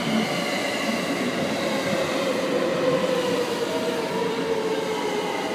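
JR West 683-series electric train running past alongside a platform: a steady rumble of wheels on rail, with a faint whine that slowly falls in pitch.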